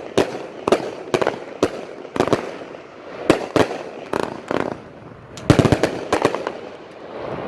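Fireworks cake firing a series of sharp bangs, shots and their breaks a fraction of a second to a second apart, with a quick flurry of bangs about two-thirds of the way through.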